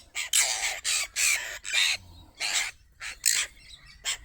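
Magpies giving a string of about six short, harsh, rasping squawks.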